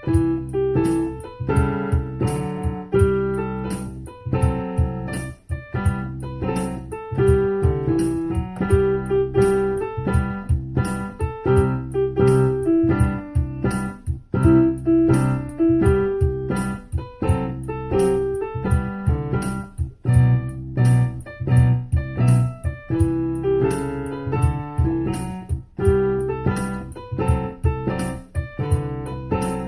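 Solo piano playing a simple melody over steady chords.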